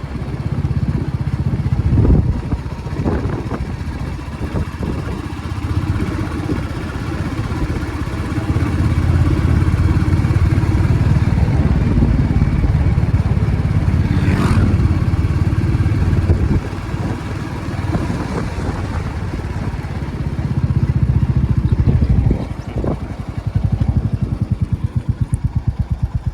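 Royal Enfield Classic Reborn's single-cylinder engine running, its level rising and easing several times as the revs change. Near the end it drops to a slow idle where the separate firing pulses can be heard.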